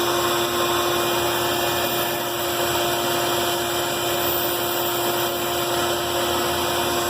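Band saw running steadily, a constant motor hum with the whir of the moving blade.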